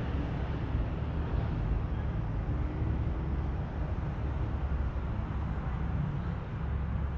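A car engine running steadily at low speed, a continuous low rumble with no revving.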